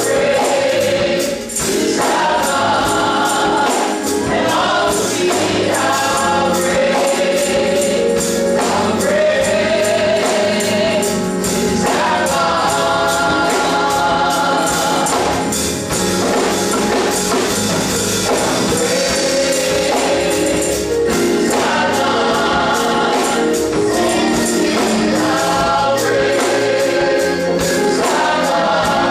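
Gospel choir singing with musical accompaniment, a tambourine keeping a steady beat.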